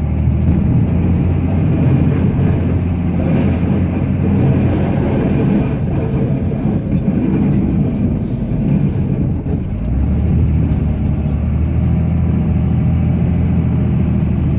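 Ram pickup's Cummins straight-six turbo-diesel running under plowing load, heard inside the cab. Its steady low note goes rough and uneven for a few seconds from about six seconds in, then settles again about ten seconds in.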